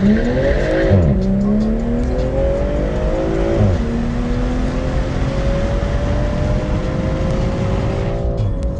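Sports car accelerating hard through the gears: the engine note climbs quickly, drops at upshifts about one second and three and a half seconds in, then rises slowly in a higher gear until another drop near the end.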